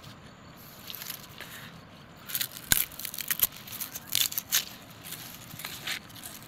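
Irregular crisp crackling and crunching from handling food while a snack is being made, with a sharp knock about two and a half seconds in.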